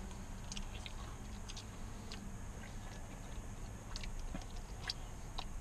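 A person biting and chewing a sauce-coated fried chicken wing, gnawing the meat off the bone, with scattered short wet mouth clicks and smacks.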